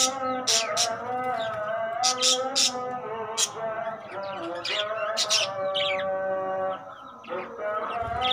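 Budgerigars chirping, with short high calls scattered through, over background music with long held melodic notes.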